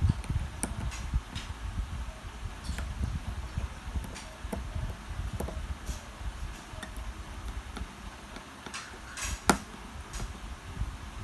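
Scattered light clicks and taps of small tools working on a wristwatch during a battery change, over low handling rumble, with one sharper click near the end.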